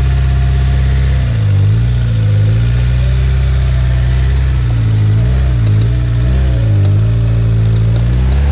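Off-road 4x4's engine running hard under load, its revs dipping and rising several times, as the vehicle drives its wheels during a tow out of mud.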